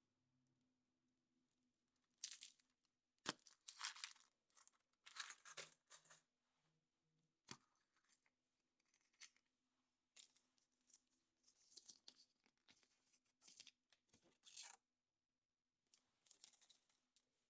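Thin wrapper of a chocolate surprise egg being torn open and crinkled in short bursts, with a couple of sharp clicks.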